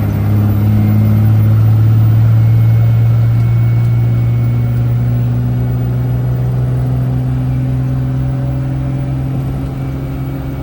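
Turbocharged 5.9-litre Cummins diesel of a 1976 Dodge W600 Power Wagon tow truck, running steadily under way at full boost. Its pitch creeps slowly upward through the second half.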